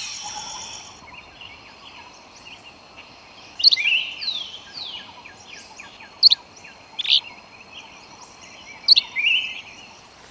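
Forest birds calling: several loud, sharp calls a second or more apart, some followed by quick downward-sliding notes, over a faint steady high tone and a background hiss.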